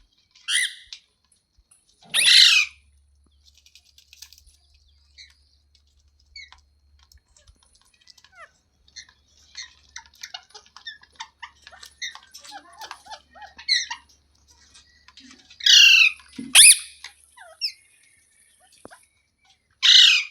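Rose-ringed (Indian ringneck) parakeet giving loud, harsh squawks about six times, each one short. Between them, from about 4 to 13 seconds in, it makes soft chirps and squeaks.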